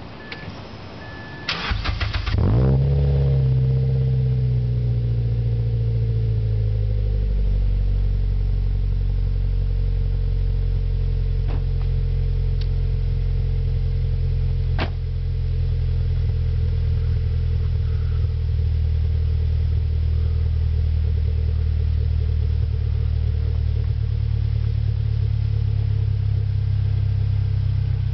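A repeated high beep in the first second, then the Mazda3's four-cylinder engine cranks briefly on the starter and catches about two seconds in. It flares and its pitch falls over the next few seconds as it settles into a steady cold-start fast idle, with a couple of faint clicks later on.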